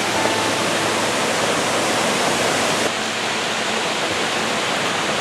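Waterfall rushing: a steady, dense roar of falling water. The sound shifts slightly about three seconds in, its hiss a little softer.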